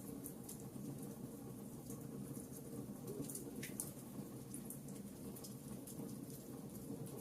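Wood fire crackling in a fireplace: a steady low rumble of burning logs with frequent small, sharp pops and snaps, one slightly bigger snap about halfway through.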